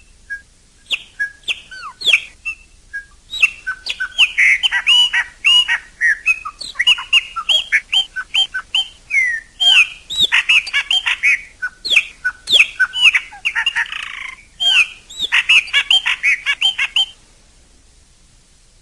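Chopi blackbird (pássaro preto) singing: a fast, unbroken string of clear whistled notes and chirps that slide up and down, stopping shortly before the end.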